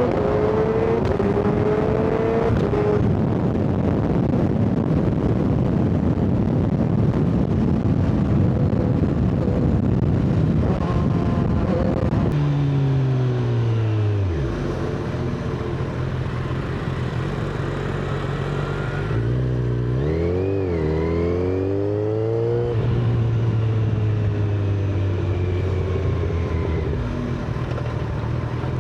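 Inline-four superbike engine under way, at first half-buried in heavy wind rush over the microphone. About halfway through the wind drops away and the engine note comes through clearly as its pitch falls. Later there is a quick rev up and back down, then the engine runs on at a lower, steadier pitch.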